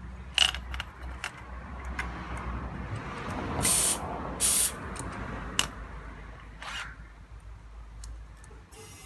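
An air pump reinflating a plugged tubeless car tyre: a steady low hum with scattered handling clicks, and two short hisses of air about three and a half and four and a half seconds in. The hum stops near the end.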